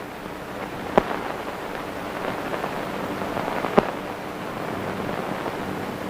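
Hiss and crackle of a worn 1930s optical film soundtrack, with two sharp pops about three seconds apart.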